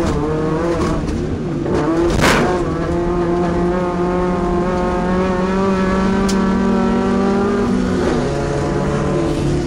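Off-road racing truck's engine running hard under load, its pitch holding steady for several seconds, then falling about eight seconds in. A short noisy burst comes about two seconds in.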